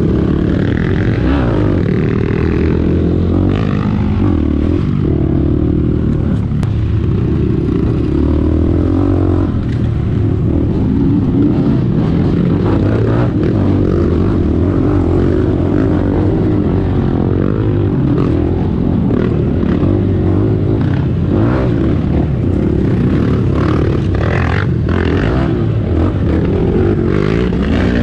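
KTM adventure motorcycle engine running steadily while riding, its pitch rising and falling with the throttle. A few knocks and rattles come near the end.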